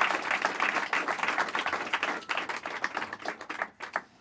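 Small audience applauding, the claps thinning out and dying away near the end.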